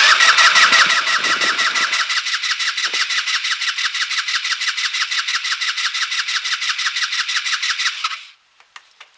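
Kymco Agility 125 scooter's electric starter cranking its single-cylinder four-stroke engine for about eight seconds with an even pulsing beat, the engine not catching, then cutting off suddenly. It has a good spark but won't fire, a fuel-delivery problem.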